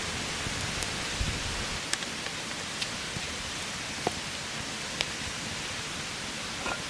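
Wood fire crackling: a steady hiss with a few sharp, scattered pops.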